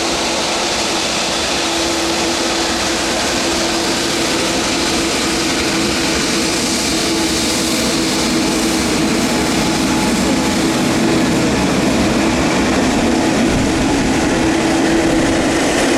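Boeing 787-9 jet airliner on approach, its engines making a steady noise with a low held tone, slowly growing louder.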